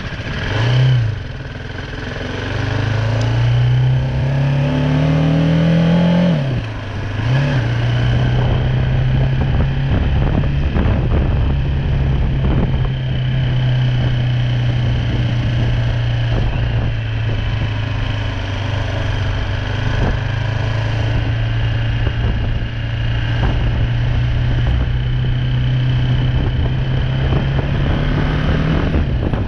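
BMW G310R's single-cylinder engine revving briefly, then pulling away with its pitch rising for a few seconds until a gear change drops the revs about six seconds in. After that it runs at steady revs, with wind noise on the microphone.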